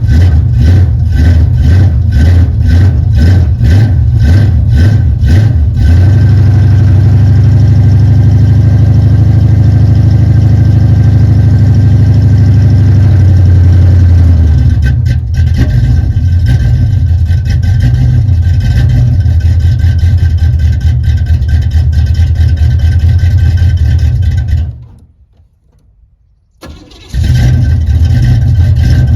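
1978 El Camino's V8 just after a cold start without a choke, running roughly with an uneven pulsing beat. About six seconds in it steadies at a higher, louder speed, then falls back to uneven running. Near the end the engine sound drops out for about two seconds, then comes back.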